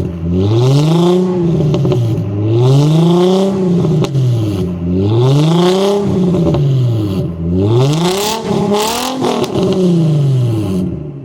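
Nissan 350Z's 3.5-litre V6 revved repeatedly through a resonator- and muffler-delete exhaust: about five blips, each rising and falling in pitch over some two seconds. There is crackling on one of the later revs, and the engine settles to idle at the very end.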